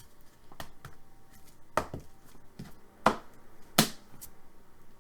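Sharp plastic clicks and taps from handling trading cards and plastic card holders: three loud clicks, about 2, 3 and 4 seconds in, with lighter ticks between.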